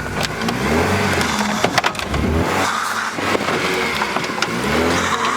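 A car engine revs up and falls back about three times, with scattered knocks and clunks in between, as a crash-damaged car is driven or worked onto a trailer in the snow.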